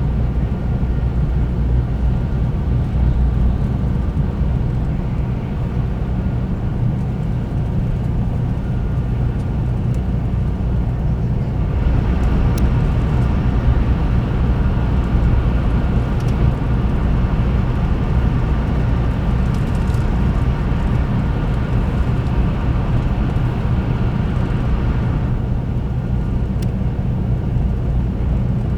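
Steady rumble and running noise inside the cabin of a 300-series Shinkansen travelling at speed. From about twelve seconds in, a louder hiss joins the rumble, and it drops back about thirteen seconds later.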